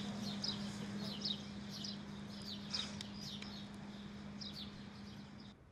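Small birds chirping in quick, repeated short calls over a steady low hum. Both cut off suddenly near the end.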